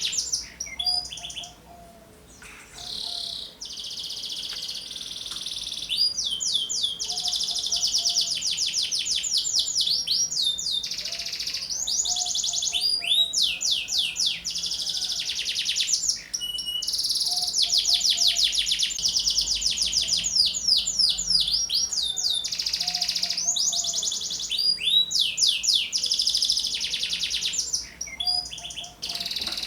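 Domestic canary singing vigorously: long phrases of rapid trills and fast repeated high notes, broken by a few short pauses.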